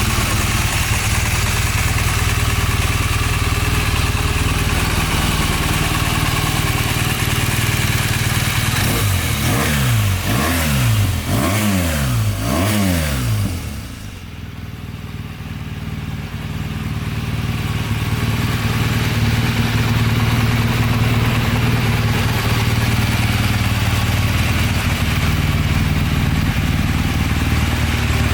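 BMW R 1200 GS Adventure's boxer twin engine idling steadily. Partway through it is revved four times in quick succession, each rev rising and falling, then it drops back to idle.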